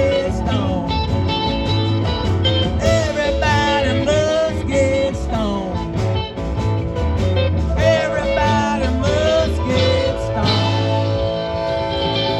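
Live band music: a bluesy rock number with electric guitar, bass and drums, and a lead line of bending notes over the steady beat.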